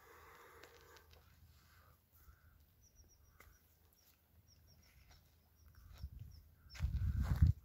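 Quiet riverside ambience with a run of short, quick, high chirps from a small bird through the middle. Near the end a low rumble hits the microphone and is the loudest sound.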